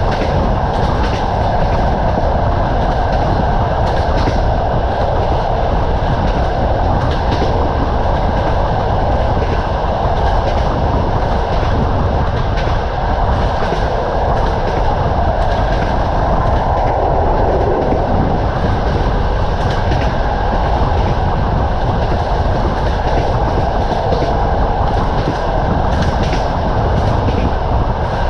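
Train running steadily on the line: a continuous rumble of the rolling railway carriage, with the clack of wheels over rail joints now and then.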